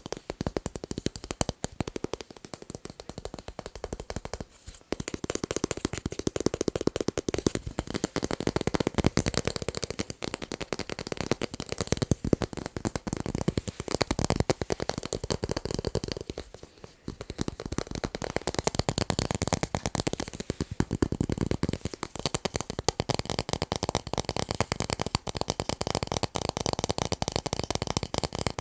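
Fast, continuous finger tapping on tape, a dense run of quick clicky taps that breaks off briefly about 5 seconds in and again about 17 seconds in.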